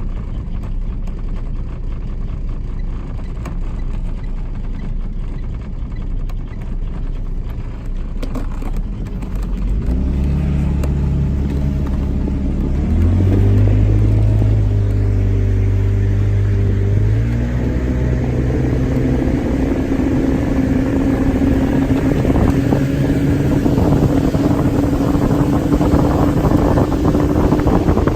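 Speedboat engine running at low speed with a low rumble, then about ten seconds in its note rises in a couple of steps as the boat speeds up and holds a steady higher drone, with a rush of wind and water growing toward the end.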